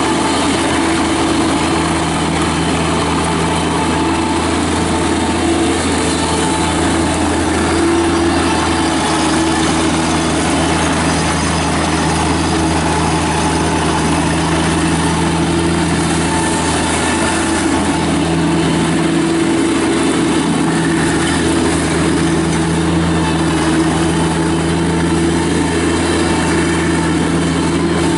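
Kubota diesel engine of a Bobcat MT85 mini track skid steer loader running at a steady speed; it is a freshly installed remanufactured engine.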